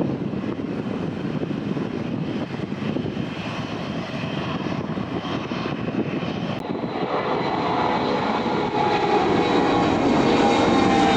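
Jet airliner engines, growing louder, with a whine of several steady tones coming in over the last few seconds: an aircraft just cleared for takeoff on runway 15.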